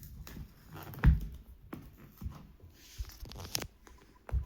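Fingers picking and tearing at the tear-strip seal on a smartphone box, with scattered scratches and taps, a sharp knock about a second in and a rustle of tearing near the end.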